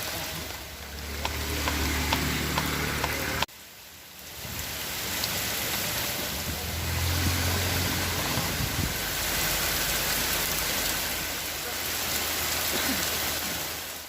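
Steady rain falling, with scattered drop clicks, and a low rumble that swells twice. The sound breaks off sharply about three and a half seconds in, then the rain comes back.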